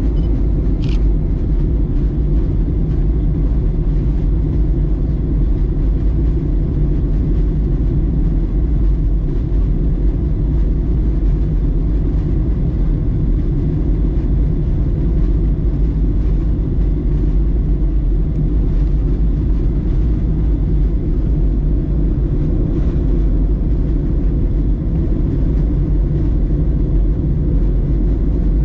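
Steady, loud rumble of a Boeing 737-900ER's cabin in flight: CFM56-7B engine and airflow noise, heard from a window seat near the back. A brief click comes just under a second in.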